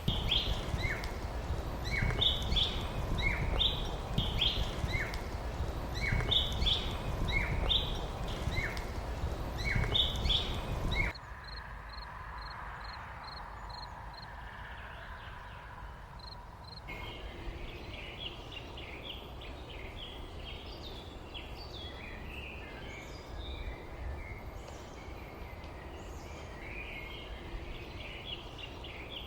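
Songbirds calling outdoors. For the first part a bird repeats a falling two-note chirp about every second and a half over a steady low rumble. About a third of the way in the rumble drops away suddenly, leaving a quick run of short high peeps and then a busy mix of overlapping chirps.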